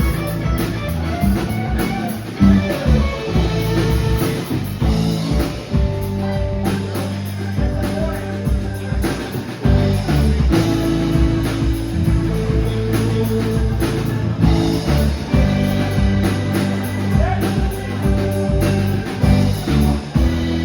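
Live blues-rock band playing: electric guitar lines over bass and drums, with sustained chords, near the end of a song.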